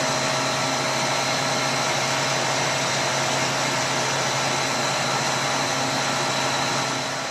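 Walk-in freezer refrigeration unit running steadily: an even whooshing machine noise over a low electrical hum, with the compressor running just after the defrost cycle while the evaporator fan stays off.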